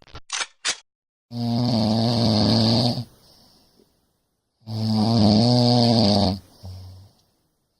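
Loud snoring: two long, steady, buzzy snores about three seconds apart, with a short weaker one after them. A few quick clicks come just before the first snore.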